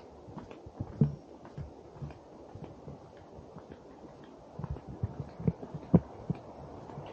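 Footsteps on a wooden boardwalk: a string of dull thuds at an uneven walking pace over a steady low rush of background noise.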